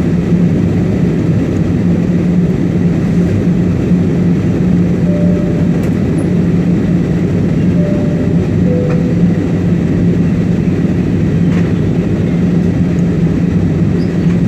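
Steady cabin noise of an IndiGo Airbus A320 in descent: a constant rush of engines and airflow with a steady low hum.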